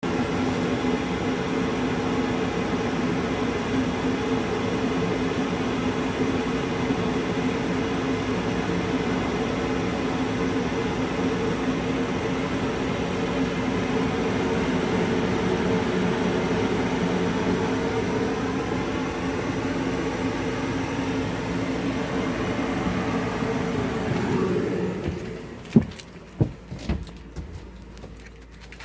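Home furnace running with a steady hum after firing up on a call for heat from the thermostat. The hum drops away about 25 seconds in, followed by a few sharp clicks.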